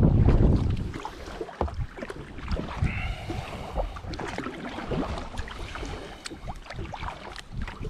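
Wind buffeting the microphone for about the first second, then small waves lapping and slapping against the hull of a drifting kayak in quick, irregular splashes.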